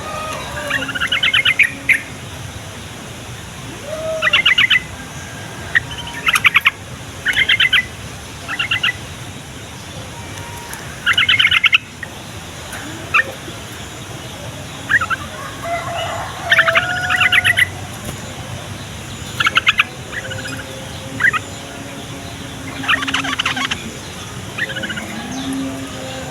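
Yellow-vented bulbul (trucukan) singing: short, quick bubbly phrases, repeated every second or two with brief pauses between them.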